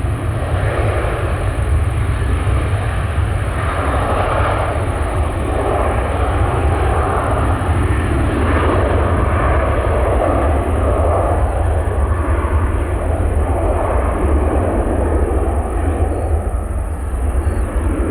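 Jet airliner's engines at close range: a loud, steady low rumble with a rushing noise above it that wavers in strength.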